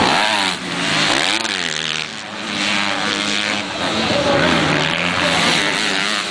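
Motocross bikes racing, their engines revving hard, several at once, with the pitch repeatedly climbing and dropping as the riders work the throttle and shift.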